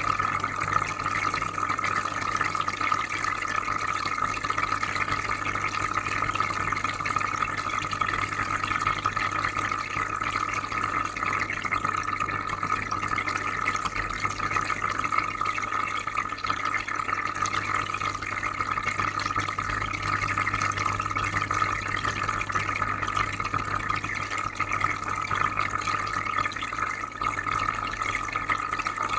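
Aquarium filter running: steady soft bubbling and trickling water over a low, even hum.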